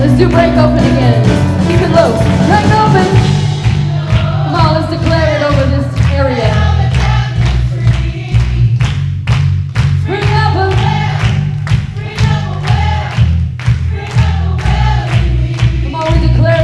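Live worship band playing a song, with several voices singing over bass, guitar and a steady drum beat.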